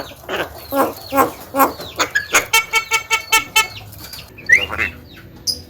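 Javan myna (jalak kebo) calling: a run of short, harsh notes about two or three a second, then a fast, buzzy rattling phrase, and a short rising whistle near the end.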